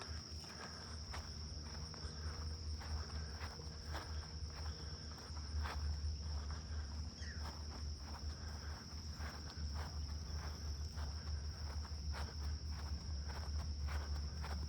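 Footsteps on a walking trail, irregular crunching steps about once a second, over a steady high-pitched insect drone, with a low rumble underneath.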